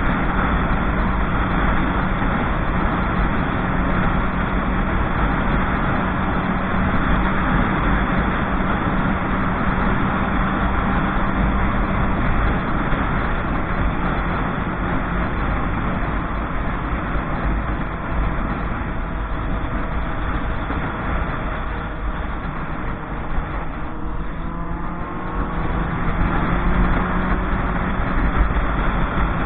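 Motorcycle riding along, with wind rushing over the microphone and the engine's steady note. About three-quarters of the way through, the engine note changes, falling and then rising again.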